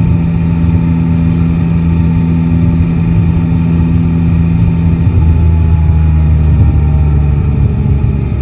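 Yamaha Tracer 9 GT's 890 cc inline three-cylinder engine running steadily under way, its pitch easing slightly lower in the second half as the bike slows.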